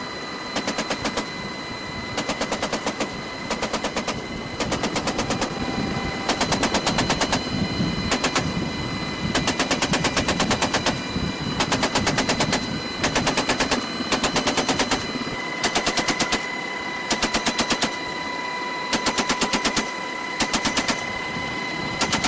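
Browning .50-calibre (12.7 mm) helicopter door gun firing many short bursts of rapid shots, roughly one burst a second, over the helicopter's steady running whine.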